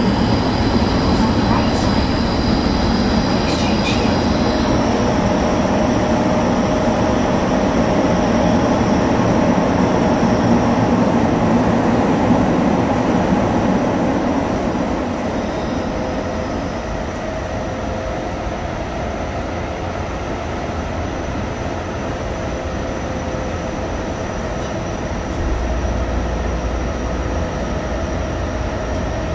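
Tsukuba Express train running underground, heard from inside the car: a steady rumble of wheels and running noise. A high whine stops about halfway through, and the sound then gets somewhat quieter. A deeper low rumble comes in near the end.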